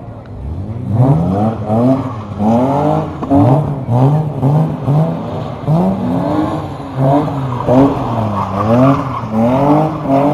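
Car engine revved over and over in quick throttle blips, each one rising and falling in pitch, about two a second, starting about a second in.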